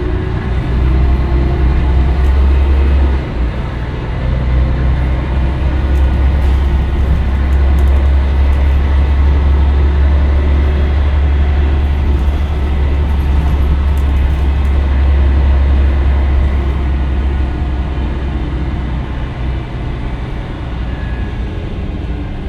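Scania L113CRL bus running steadily, with a strong low engine hum under broad road and body noise. It dips briefly about three seconds in and gradually gets quieter near the end.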